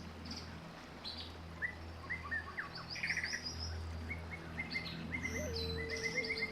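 Several wild birds chirping and calling in quick runs of short high notes and rapid trills, over a steady low hum. A steady mid-pitched tone comes in about five seconds in.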